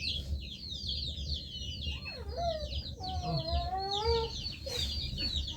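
Chickens calling: a dense, continuous chorus of short, high peeps, several a second, with a few longer, lower calls that bend in pitch around the middle.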